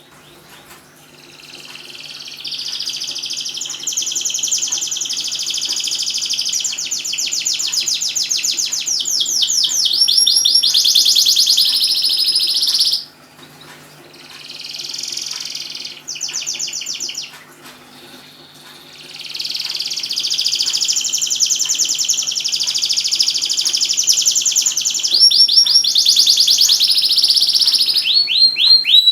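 Domestic canary singing long, rapid rolling trills, phrase after phrase. There is a break of a few seconds near the middle with only short phrases, then the full song resumes. A faint steady hum runs underneath.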